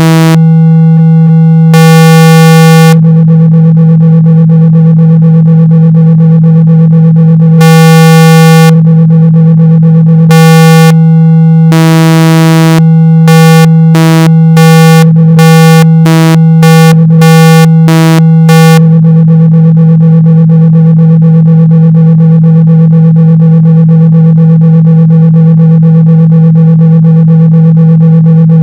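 Synthesized speaker-cleaning tone: a loud, steady low hum at about 162 Hz, played to vibrate water and dust out of a speaker. For most of the first two-thirds a buzzier, brighter tone pulses on and off over it, in quicker on-off bursts in the middle part. After that the steady hum continues alone.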